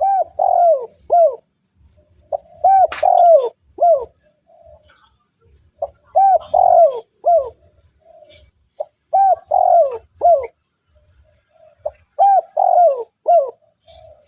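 Spotted dove cooing: a phrase of three or four low, hooting coos, repeated about every three seconds, five times over.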